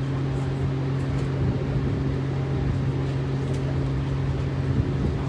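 Steady machinery drone aboard a ship, with a low hum and a second tone above it holding constant throughout.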